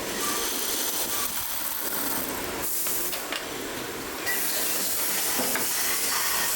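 Factory machinery noise: a steady hiss with a few faint clicks, its character shifting abruptly twice.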